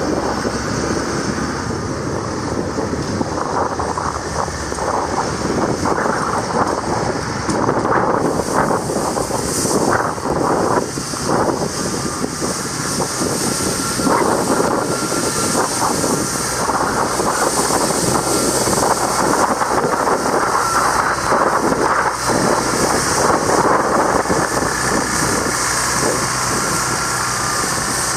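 Blizzard wind blowing over the microphone: a steady, loud rushing noise with irregular gusts.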